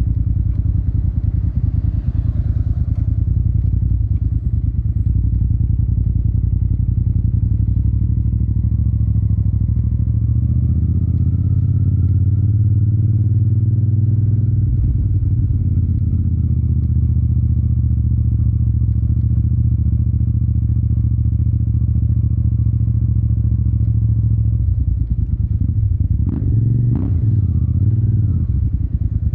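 Yamaha TDM 900's parallel-twin engine through an Akrapovic exhaust, running steadily under way, its pitch rising gently in the middle and easing back. A couple of short knocks near the end.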